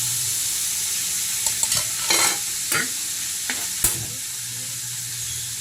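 Chicken frying in hot oil with a steady sizzle. A utensil scrapes and knocks against the pan several times, between about one and a half and four seconds in, as the pieces are stirred.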